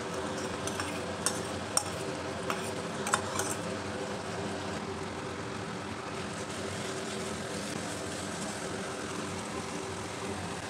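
Steady low hiss of prawns and gourd-leaf paste cooking over a low gas flame in a cast-iron kadai, with a few light clinks of a steel spoon and bowl in the first few seconds as the paste is scraped in, then soft stirring with a silicone spatula.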